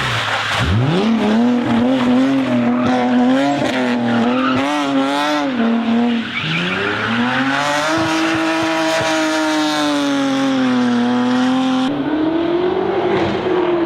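BMW M5 engine revving hard at high rpm. Its pitch climbs steeply within the first second, wavers, drops briefly about six seconds in, then climbs again and holds high; about twelve seconds in it changes abruptly to a note that rises and falls.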